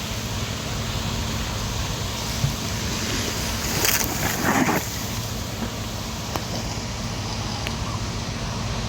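Steady low engine hum under outdoor wind noise, with a brief louder rushing burst about four seconds in.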